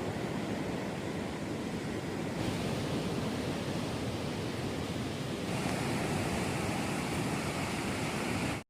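Strong wind and surf on a beach: a steady rushing noise with no distinct events, shifting slightly in tone twice.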